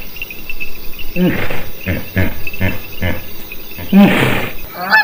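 Dinosaur sound effect: a series of growling roars that fall in pitch, over a high insect-like chirring.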